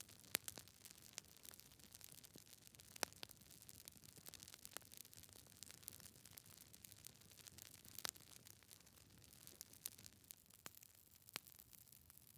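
Wood fire in a fireplace crackling: irregular sharp pops and snaps from burning logs over a faint low hiss, with louder pops about three seconds in and again near eight seconds.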